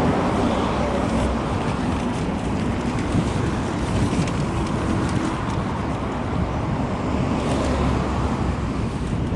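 Steady rushing road and wind noise while riding a bike along a road, with car traffic around.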